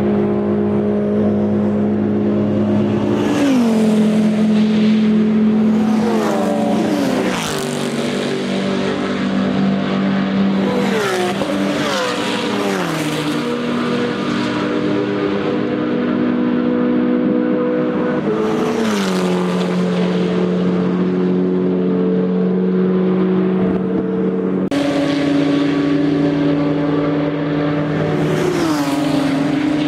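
Race cars with open exhausts passing one after another at full throttle, the engine note held steady as each approaches, then dropping in pitch as it goes by; several pass-bys, with overlapping engines. The sound changes abruptly about 25 seconds in.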